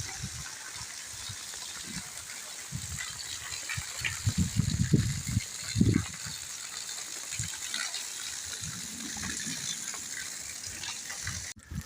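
Steady rain falling, a continuous hiss of water, with irregular low rumbles that are loudest about halfway through. The sound cuts out briefly near the end.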